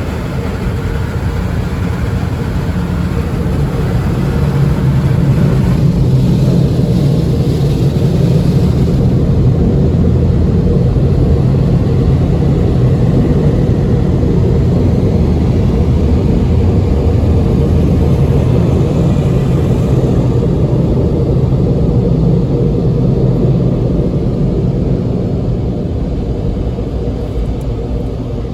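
Tunnel car wash machinery at the rinse stage, heard from inside the car: a loud, steady low drone with a hiss of spray over it. It gets louder about four seconds in, the hiss fades after about nine seconds, and the drone eases off near the end.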